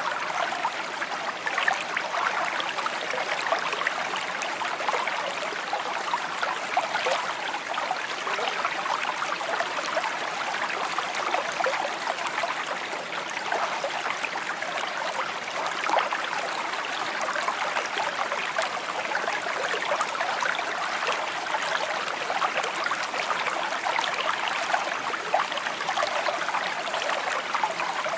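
Shallow stream babbling and trickling over stones, a steady bright burble without pauses.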